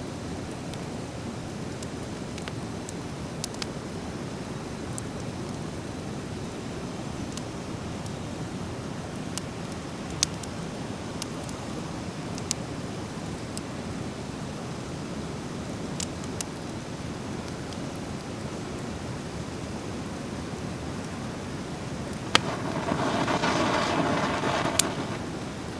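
Driftwood fire crackling: scattered sharp pops over a steady low rush, with a louder hiss lasting about two and a half seconds near the end.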